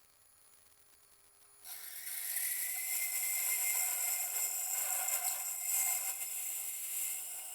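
Ulsar ULS25 ultrasonic drilling machine starting up about a second and a half in, after a faint hum, and boring a 1.1 mm hole through glass: a sudden high-pitched, noisy whine with a steady tone that rises slightly and then holds.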